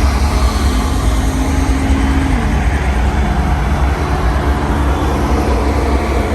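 Diesel locomotives at the head of a heavy freight train passing close by, with a loud, steady, deep engine rumble mixed with the noise of wheels on rail. A steady engine tone drops slightly in pitch about two and a half seconds in.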